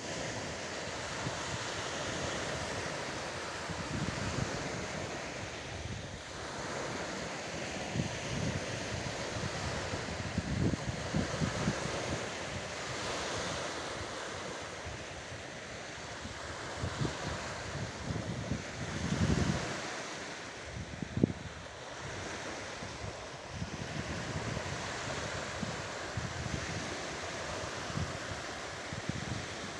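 Steady rush of wind and water at a fjord shore, with irregular low gusts of wind buffeting the microphone.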